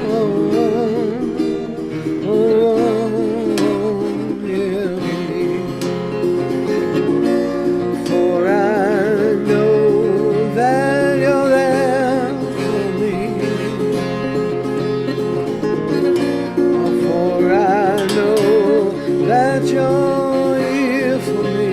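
Wordless scat singing with a wavering vibrato over acoustic guitar playing.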